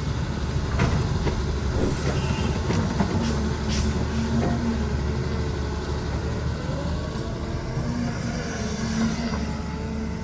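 Heavy diesel engine of a hydraulic excavator running under load while digging, its pitch rising and falling in slow swells, with a few sharp metallic clanks.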